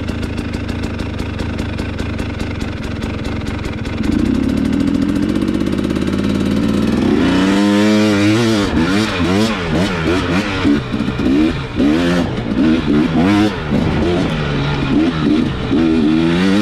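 Enduro dirt bike engine idling steadily, then held at higher revs about four seconds in; about halfway through it takes off, the revs rising and falling rapidly with the throttle as it rides away.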